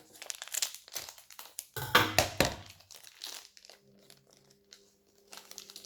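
Toy packaging crinkling and rustling as it is handled and torn open by hand, in bursts, loudest about two seconds in with a dull thump; after a quieter stretch the crinkling picks up again near the end.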